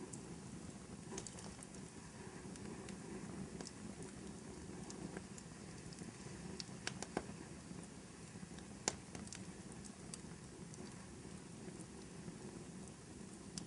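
Fireplace fire crackling: a faint steady hiss of flames with irregular sharp pops and snaps, a few louder snaps about halfway through.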